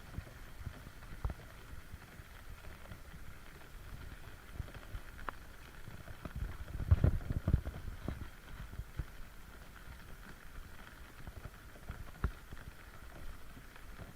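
Irregular low thumps of footsteps and handling on a hand-held camera while walking, with a denser run of louder thumps about seven seconds in, over a faint steady background hum.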